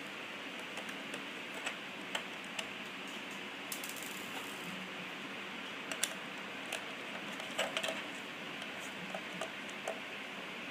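Scattered light clicks and taps of small projector parts and screws being handled during disassembly, irregular and a few per second at most, over a steady hiss.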